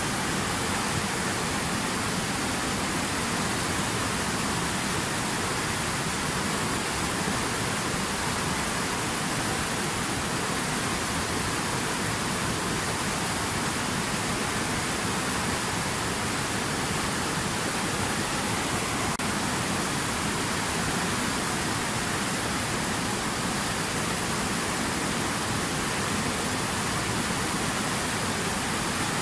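Rapids of a forest stream: water rushing over stones in a steady, unchanging stream of sound.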